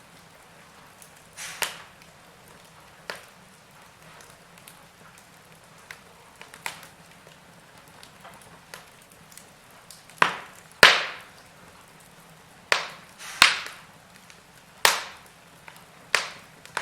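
Wood fire crackling in a fireplace: irregular sharp pops and snaps over a faint steady hiss, with a run of louder pops from about ten to fifteen seconds in.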